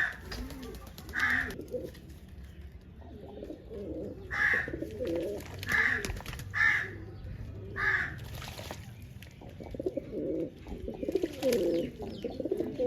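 Pigeons cooing in low, wavering runs, fullest in the second half. A short, higher-pitched call cuts in six times in the first two-thirds.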